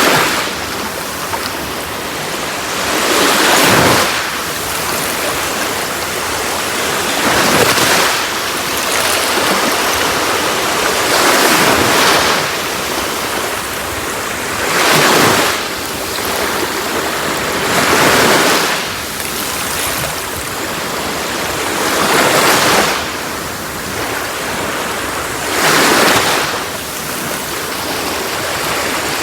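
Sea waves washing onto a shore, with a surge of surf every three to four seconds over a steady wash of water.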